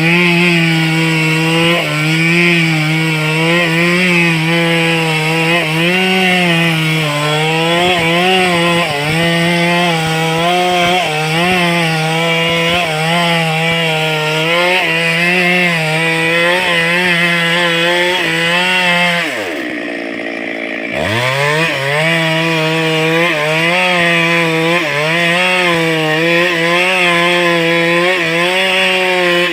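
Stihl two-stroke chainsaw running at high revs, cutting into a wood block, its pitch wavering under load. About twenty seconds in the engine speed drops briefly as the throttle comes off, then climbs back up.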